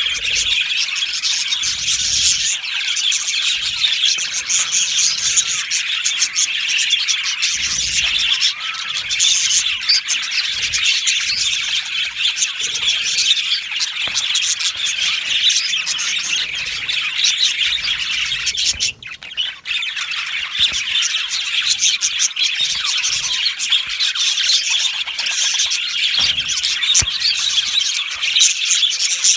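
A flock of budgerigars chattering and squawking continuously, a dense mix of warbles and chirps, with a brief lull about two-thirds of the way through.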